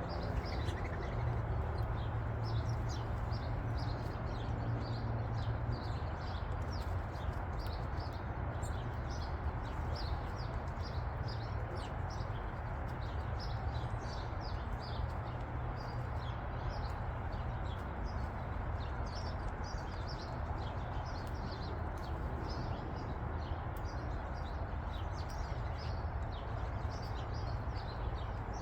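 Small birds chirping, short high chirps a few times a second throughout, over a steady low rumble.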